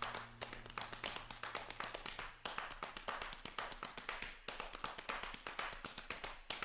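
Quiet, fast rhythmic hand percussion: a steady run of claps and taps with regular accents, without piano.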